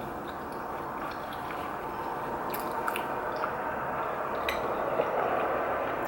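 Close-up eating sounds of rice cake and dumpling soup: wet chewing and slurping, with a few light clicks of utensils partway through.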